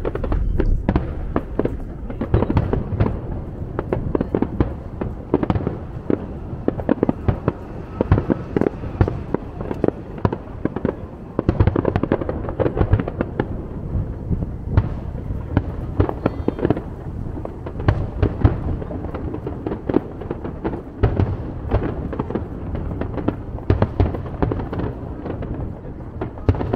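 Aerial fireworks display: shells bursting in a dense, continuous run of bangs, several a second and overlapping.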